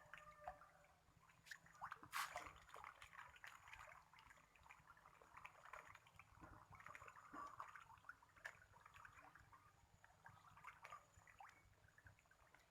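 Catfish feeding at the water surface: faint, irregular small splashes, slurps and drips as they snatch their food.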